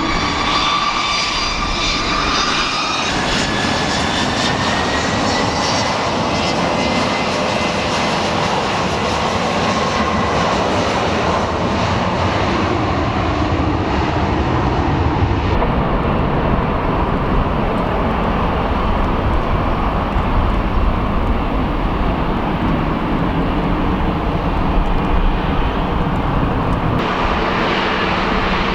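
Boeing 717's two rear-mounted Rolls-Royce BR715 turbofans running at takeoff power: a whine rising in pitch in the first few seconds over a loud, steady jet roar that carries on through the departure.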